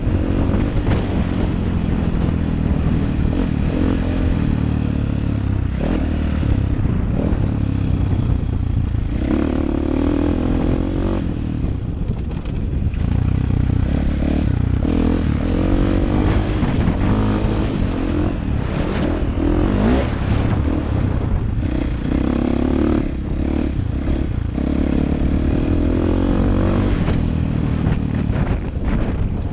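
KTM 450 SX-F's single-cylinder four-stroke engine running under load, its pitch rising and falling again and again as the throttle opens and closes.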